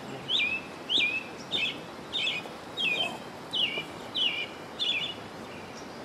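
A bird calling repeatedly: a run of about nine sharp, sweeping notes, somewhat under two a second, that stops about five seconds in, over a steady outdoor background hiss.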